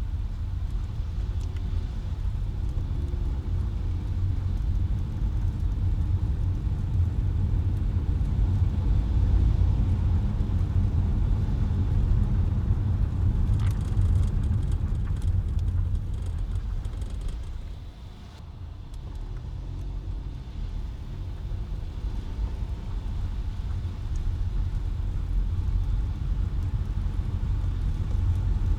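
Car driving through the city with a steady low rumble of engine and road noise. The rumble eases off briefly about two-thirds of the way through, as when slowing down, then builds again.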